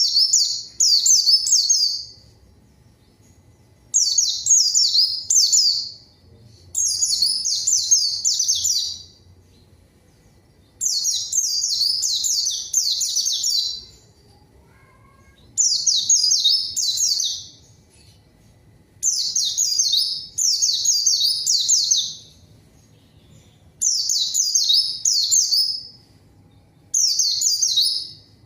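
White-eye (pleci) singing in lively bursts of rapid, high chirping twitters, each a second or two long, about eight times with short pauses between. This is the energetic 'gacor' song played as a lure to make other white-eyes answer.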